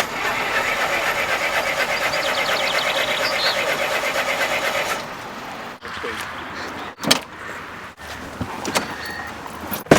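A Triumph Spitfire 1500's four-cylinder engine running with a fast, even pulse. About halfway through it gives way to a quieter background with a few sharp clicks.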